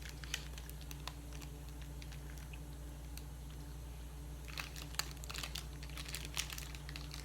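Chocolate-bar wrapper crinkling and tearing as it is handled and opened, in scattered short crisp rustles that are busiest about four to five seconds in, over a steady low room hum.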